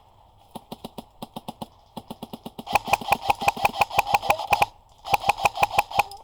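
Airsoft electric gun (AEG) firing two full-auto bursts, its gearbox motor whining under a fast stream of shot clicks, the second burst shorter. A lighter run of evenly spaced clicks comes before the bursts.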